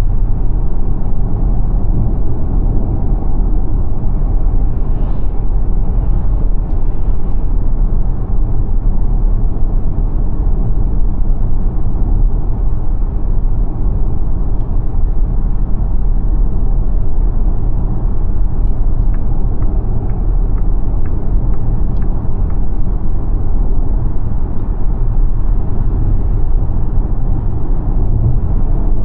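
XPENG G9 electric SUV driving on the road, a steady low rumble of tyre and road noise with no engine sound.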